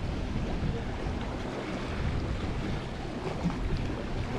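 Wind buffeting the microphone over the wash of sea water around a kayak: a steady rumbling noise with no distinct events.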